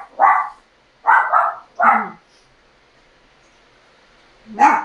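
A dog barking: a few short barks in the first two seconds and one more near the end.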